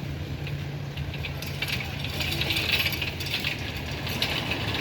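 Rapid small clicks and clinking rattles, growing denser after the first second or so, over a steady low hum.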